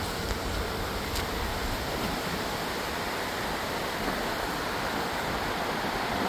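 Steady rushing noise that does not let up, spread evenly from low to high pitch.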